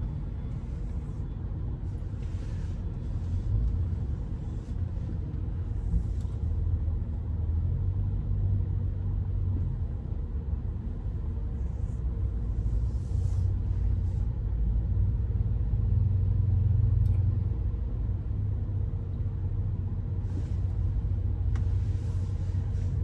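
Low, steady rumble inside the cabin of a Rolls-Royce Silver Spirit driving slowly, with the engine and tyres running at low speed.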